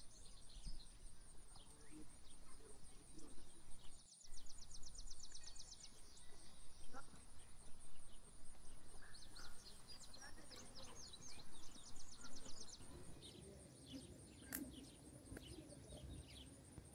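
Wild birds singing, with scattered chirps and two runs of rapid trills. A steady, high-pitched pulsing whine runs underneath.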